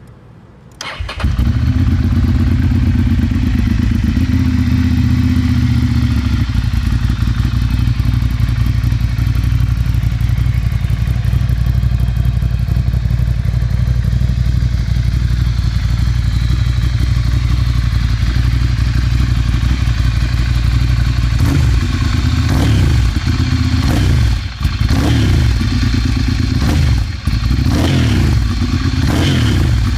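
Ducati Monster 796's air-cooled V-twin through a Termignoni exhaust. It starts up about a second in and idles steadily, then from about two-thirds of the way through it is blipped several times, rising and falling in revs: a thunderous roar.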